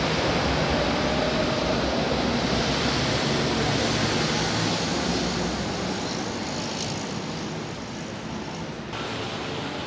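São Paulo Metro Line 3 train running along the track: a steady rumble and rushing noise that slowly fades in the second half.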